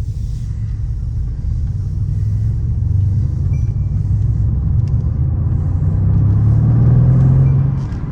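Mercedes-AMG C 63's twin-turbo V8 with a custom exhaust, driven gently while still cold: a steady exhaust rumble that builds and rises a little in pitch as the car pulls, then drops off about a second before the end as the throttle eases.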